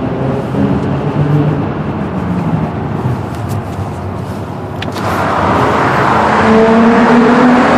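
Nissan Altima SE-R's V6, fitted with a cold air intake and stock exhaust, running at light throttle. About five seconds in it opens up suddenly and gets much louder, with added intake noise, and its pitch climbs steadily as it accelerates, echoing in a tunnel.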